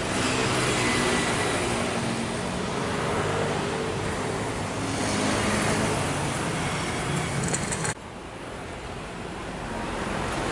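Road traffic: vehicle engines running close by over a steady rush of traffic noise. About eight seconds in the sound drops suddenly to a quieter traffic background.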